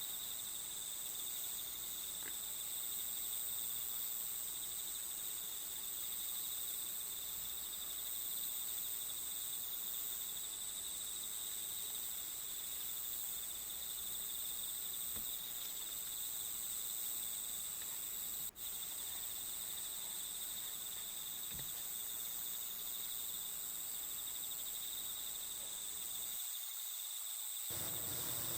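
Steady chorus of insects, a high continuous chirring, used as a background nature-sound track. It is briefly interrupted by a short dropout a little past the middle.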